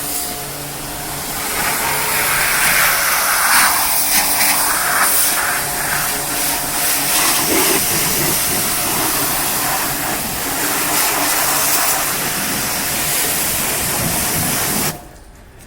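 Pressure washer running and spraying: a steady hiss of the water jet over the even hum of the pump motor, cutting off abruptly near the end.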